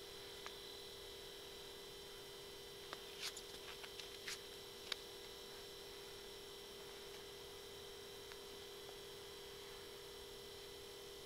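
Faint, steady electronic hum of several fixed tones, with a few small clicks and ticks about three to five seconds in.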